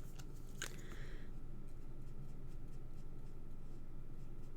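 Stampin' Blends alcohol marker working over card, a light scratching of the nib as leaves are coloured in. There are a couple of sharp clicks in the first second.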